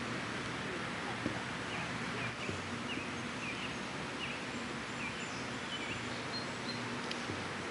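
Outdoor background noise with small birds chirping: short high chirps that come again and again at uneven intervals, over a steady low hum.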